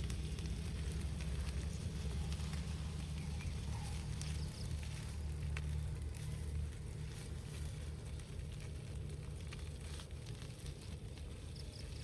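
Campfire crackling, with scattered small pops over a steady low rumble.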